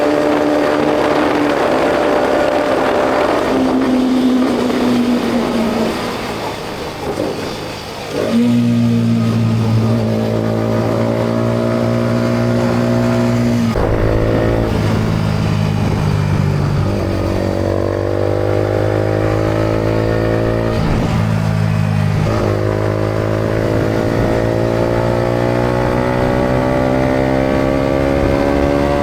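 Yamaha MT-125's single-cylinder four-stroke engine through a GPR aftermarket exhaust. It first drops in revs as the bike slows, then opens up about eight seconds in and accelerates hard. The engine note climbs through the gears, falling back at three upshifts.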